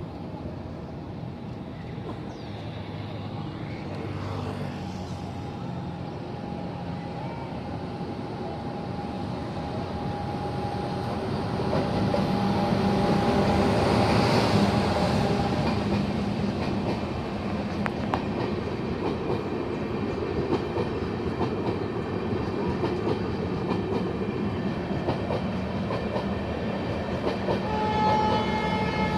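Passenger train of LHB coaches running on the rails, its wheel and track noise growing louder over the first twelve seconds or so and then holding steady. Near the end, a steady pitched horn-like tone with several overtones starts.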